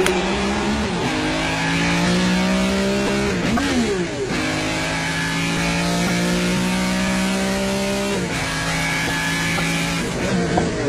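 Ferrari 275 GTB's V12 engine pulling hard at speed. The revs climb over the first few seconds, dip and flare quickly about four seconds in, hold high and steady, then drop to a lower pitch about eight seconds in.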